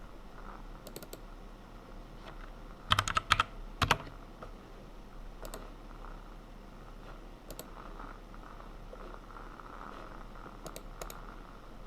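Computer keyboard typing in scattered single keystrokes, with a quick flurry of louder key presses about three seconds in, over a faint steady hum.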